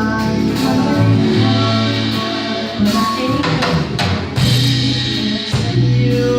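Live band playing an instrumental passage of a soul/R&B song: a bass line with drum kit hits, guitar and sustained chords, no vocals.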